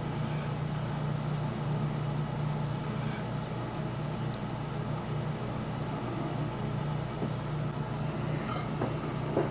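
Steady low machine hum, with a few faint small clicks and taps near the middle and the end.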